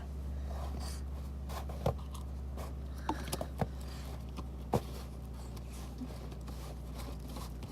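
A plastic slime container and its lid being handled, with a few light clicks and scrapes over a steady low hum.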